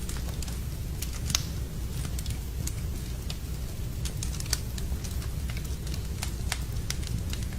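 Wood fire in a fireplace crackling: irregular sharp pops and snaps over a steady low rumble of the flames, with the sharpest pops about a second in and again past the middle.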